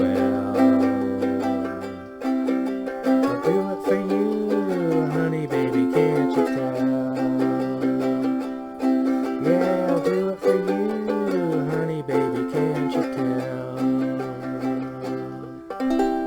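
Ukulele tuned to open C (GCEG) played with a slide in an instrumental passage, its notes gliding up and down in pitch. A final chord is struck near the end and left to ring.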